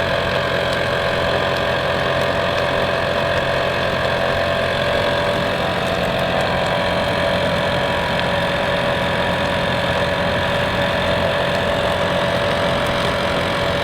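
An engine idling steadily, its even hum unchanging throughout.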